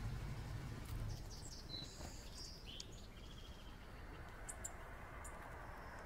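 Small birds chirping and calling: a quick cluster of short high notes and a buzzy trill in the first half, then a few sharp high chirps near the end, over a low rumble that fades in the first second.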